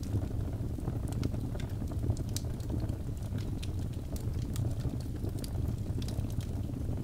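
Wood fire burning in a fireplace: a steady low rumble of flame with frequent sharp crackles and pops scattered irregularly throughout.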